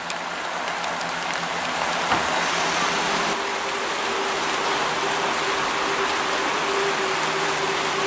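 Diesel trains running: a steady hiss of running noise with a low engine hum from a GWR Class 158 diesel unit. About three seconds in it changes to a second train approaching, with a steady whine over the hiss.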